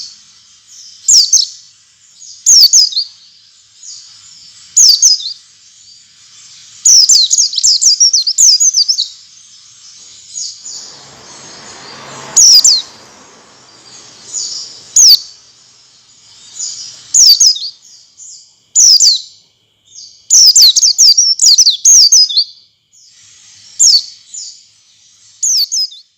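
White-eye (pleci) calls: short, high-pitched, downward-sweeping chirps in bursts every second or two, with quicker runs of notes now and then. This is a lure recording meant to set caged white-eyes singing. About eleven seconds in, a brief hiss of noise rises under the calls.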